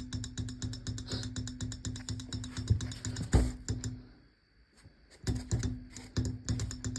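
Rear hub motor of a Kugoo Kirin V3 Pro electric bike spinning with a steady hum and a rapid clicking knock, the fault the rear wheel has. There is a louder knock a little over three seconds in, then it winds down to near stop and starts up again about a second later with the same hum and clicking.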